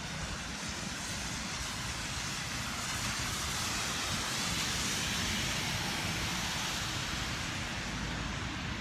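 Hiss of rain and wet pavement with a low wind rumble on the microphone. A louder hiss swells and fades around the middle, like a car passing on the wet road.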